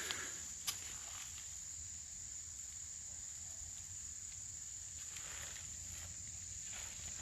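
Steady high-pitched insect chorus, with a sharp click about a second in and a few soft footsteps on the forest floor near the end.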